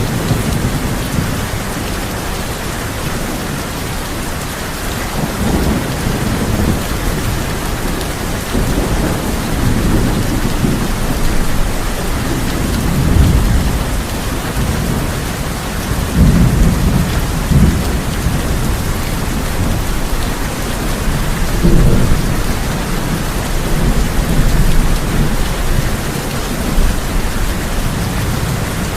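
Heavy rain falling steadily on a tin roof, with thunder rolling in low rumbles that swell and fade several times.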